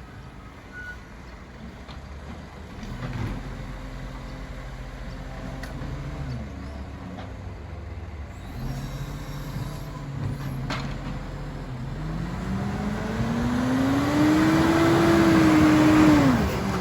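Iveco Stralis garbage truck's diesel engine revving: a short rise early on that drops back, then a long climb in pitch and loudness that peaks near the end and falls away sharply.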